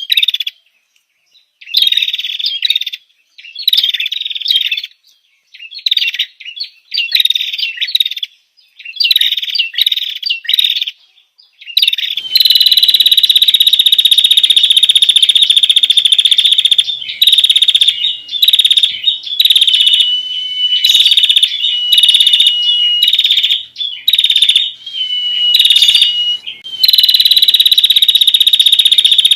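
Female prinia (prenjak) calls, as used to lure a male. First come short chirping phrases about a second long with pauses between. From about halfway on there is a loud, nearly unbroken buzzing trill with only brief breaks.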